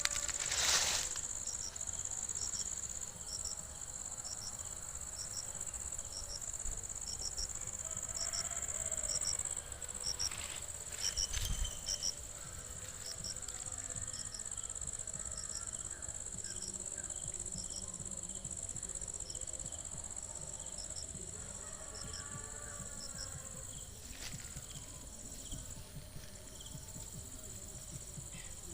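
Insects, crickets or cicadas, making a steady high-pitched drone with a fainter chirp repeating about twice a second. The drone drops away near the end.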